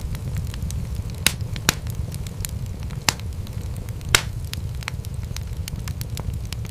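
Wood fire in a fireplace crackling, with many small snaps over a steady low rumble and four louder pops in the first two thirds.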